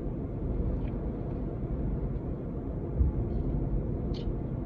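Low steady rumble of a car engine idling, heard from inside a car, with one soft thump about three seconds in.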